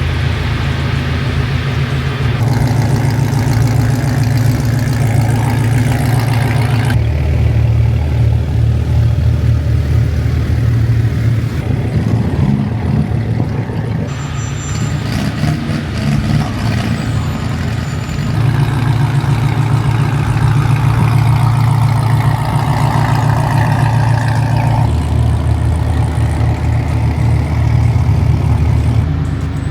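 Car engines running at low speed, a steady low rumble that changes abruptly every few seconds.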